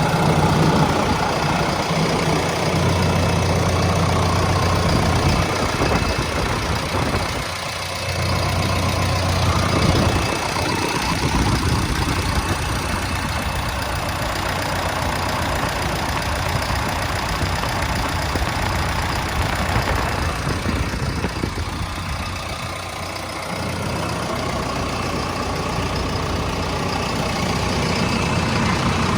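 John Deere 6115D tractor's diesel engine running steadily at idle, its level dipping briefly twice.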